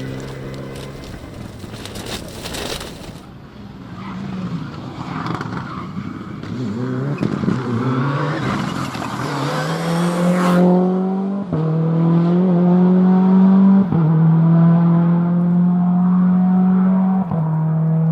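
Four-wheel-drive rally car engine accelerating hard, shifting up through the gears every two to three seconds in the second half, each shift a sudden drop in pitch. About two seconds in there is a short burst of crackling and scraping noise.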